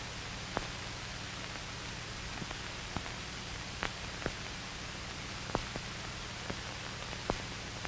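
Steady hiss and low hum with scattered, irregular clicks and pops: the surface noise of an old film soundtrack.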